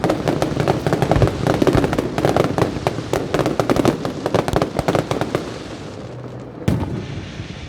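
Aerial fireworks going off: a dense, rapid crackle of many small bursts that thins out about five seconds in, followed by a single sharp bang near the end.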